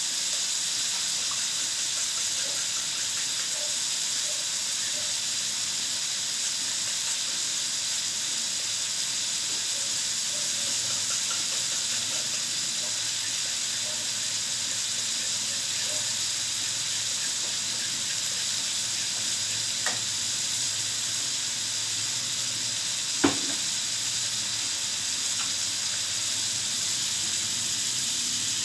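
Chopped chicken liver and other meat frying in oil in a steel wok: a steady sizzle, with a single sharp knock about two-thirds of the way through.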